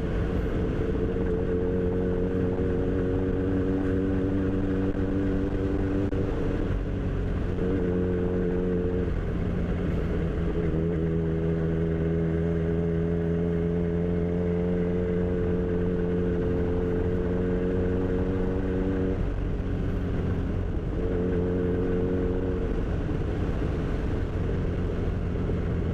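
Kawasaki Z1000 inline-four engine running under way, its note climbing slowly for several seconds and breaking off briefly three times, over steady wind rumble.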